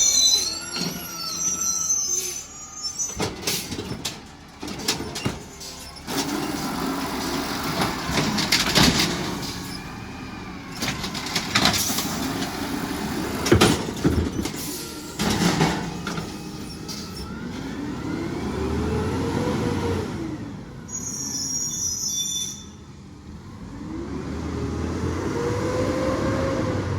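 Garbage truck working a pickup: a long run of bangs and clatter, then the engine revving up and easing back down twice. Short high squeals come at the start and again about three-quarters of the way through.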